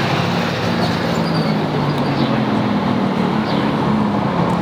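Street traffic: a steady low engine hum from a vehicle running close by over a haze of road noise.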